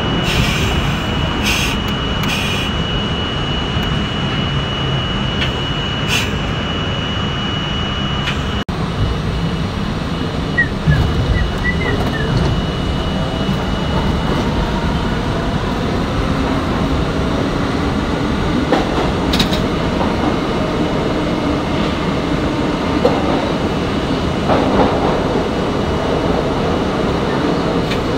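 Passenger train running on the rails: a steady rumble, with a thin high tone through the first half.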